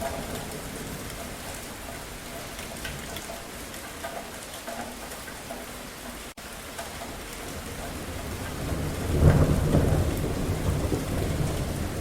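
Steady rainfall with a rolling rumble of thunder that builds about eight seconds in and is loudest about a second later, rumbling on to the end. The sound drops out for a split second just past the middle.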